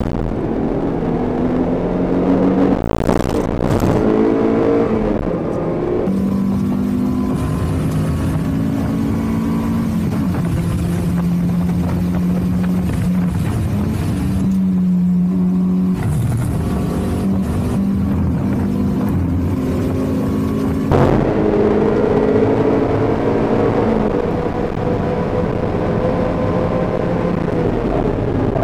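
Toyota MR2 Spyder's 1ZZ-FE 1.8-litre four-cylinder engine heard from inside the cabin while driven hard. The revs climb and fall, hold steady for a few seconds in the middle, and the pitch changes abruptly a few times.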